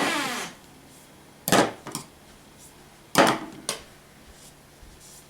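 Hard objects knocked or set down on a wooden surface: two pairs of short, sharp knocks, after a brief ringing sound that dies away with falling pitch right at the start.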